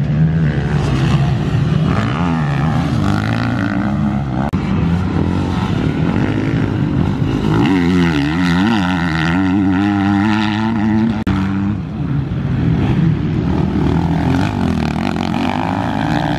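Dirt bike engines running and revving, their pitch rising and falling repeatedly.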